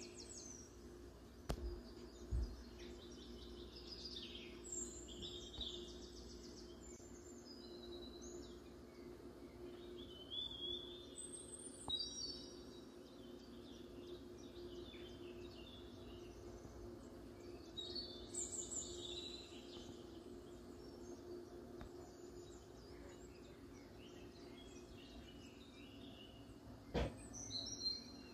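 Small birds chirping in short, scattered calls over a steady low hum, with a couple of soft knocks near the start and one near the end.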